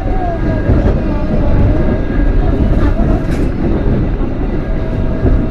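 Passenger train running, heard from inside the carriage: a steady low rumble, with a thin steady tone coming in near the end.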